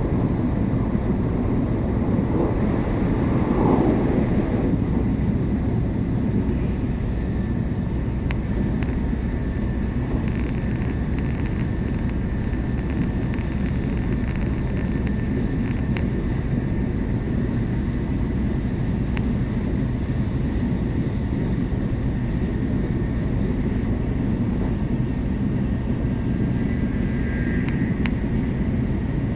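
Steady low rumble and rush of a Shinkansen train running at speed, heard inside the passenger cabin, with a brief louder swell about three seconds in.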